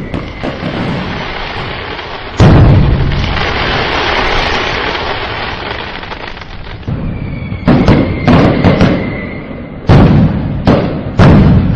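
Fireworks exploding: one big boom about two seconds in, trailing off into several seconds of noisy crackle, then a quick string of sharp bangs over the last four seconds.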